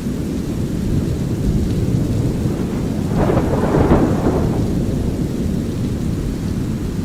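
Steady deep brown noise with light rain, and a roll of thunder that swells up about three seconds in, peaks around four seconds and fades by about five seconds.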